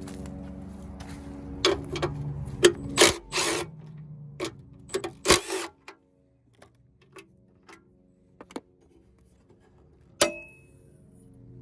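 Hand tools and metal car parts being handled: a quick run of sharp knocks and clatters in the first half, then a single ringing metal clink about ten seconds in.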